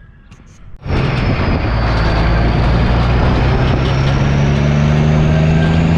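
Semi truck's turbo diesel engine running through newly fitted dual stacks with 5-inch mufflers, starting abruptly about a second in and then holding steady, with a faint high whine riding over it.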